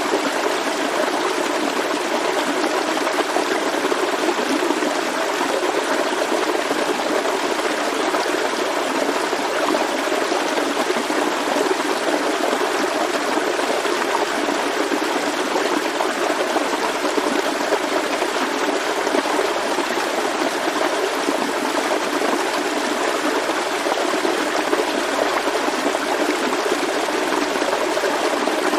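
Forest stream flowing steadily over rocks, a constant even rush of water with light trickling.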